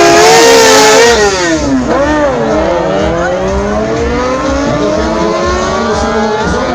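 Sportbike engines on a drag strip at high revs; about two seconds in the engine pitch drops sharply, then climbs steadily as a bike accelerates.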